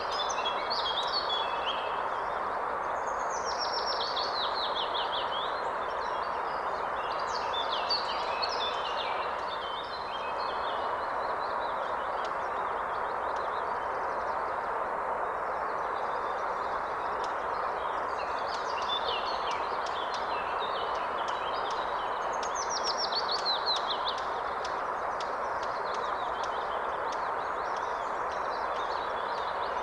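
Steady rushing of flowing river water with songbirds singing over it. Quick runs of falling notes stand out about three seconds in and again about twenty-two seconds in.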